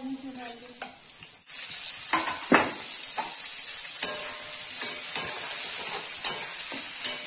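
Chopped onions sizzling loudly in hot oil in a frying pan, stirred with a spatula that scrapes and knocks against the pan. The sizzle comes in abruptly about a second and a half in, after a quieter start.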